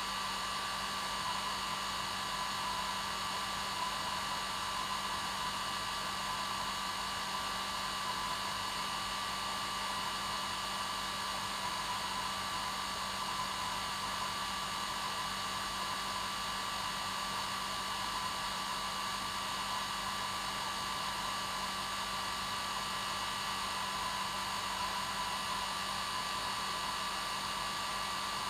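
Hair dryer running steadily on its normal setting: an unchanging airflow rush with a steady motor hum and whine.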